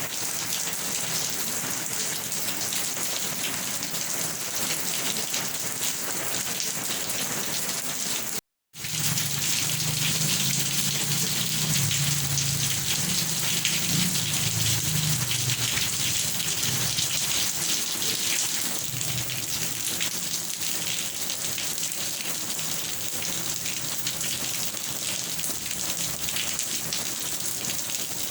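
Steady rain falling on a surface, an even hiss of drops. It cuts out to silence for a moment about eight seconds in, then resumes with a low rumble of thunder lasting several seconds.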